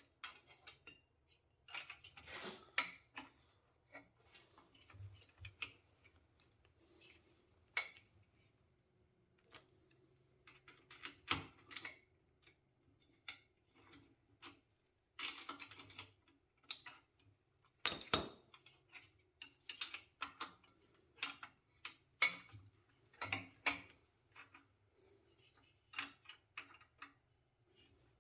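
Irregular clinks and clanks of metal tools and hardware against a miniature locomotive's steel chassis as the jackshaft is lined up and bolted in place.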